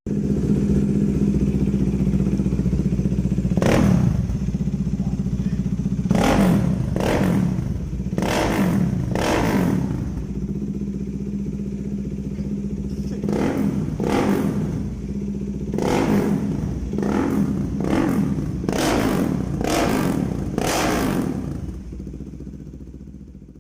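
Modenas Dominar 400's single-cylinder engine idling through an aftermarket SC-Project exhaust, with repeated short throttle blips. It fades out near the end.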